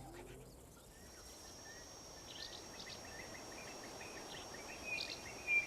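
Natural outdoor ambience: a steady high insect drone starting about a second and a half in, with scattered short bird chirps over it and a louder chirp near the end.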